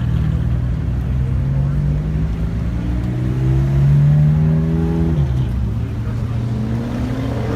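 A car engine accelerates, its pitch climbing steadily, then drops sharply about five seconds in and starts climbing again near the end.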